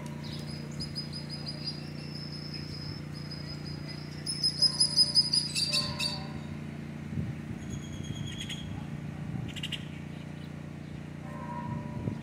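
Small birds chirping and calling in the trees, with a loud run of quick repeated chirps about four seconds in that lasts nearly two seconds, then a few shorter calls. A steady low hum sits underneath.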